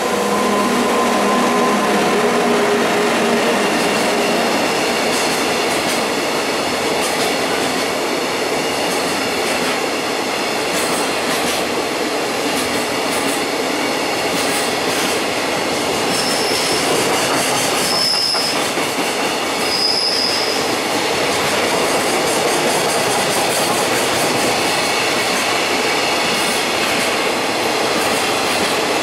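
Container wagons of a freight train rolling past at speed: a steady rumble and clatter of wheels on rail, with a few short high wheel squeals about two-thirds of the way through. In the first two or three seconds the hum of the EF64 electric locomotive fades as it moves on ahead.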